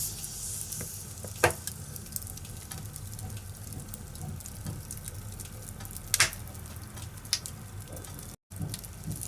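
Wood fire burning in a fireplace: a steady low rumble of flames with scattered small crackles and two loud pops, about a second and a half in and about six seconds in. The sound cuts out for an instant near the end.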